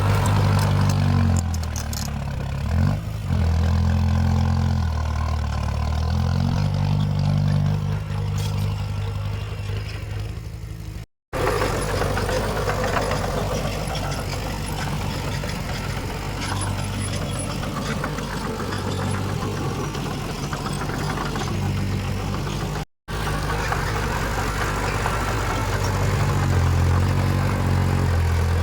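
Heavy diesel engines of earthmoving machinery at work, the bulldozer and dump trucks running and rising and falling in pitch as they take load. The sound cuts out for a split second twice.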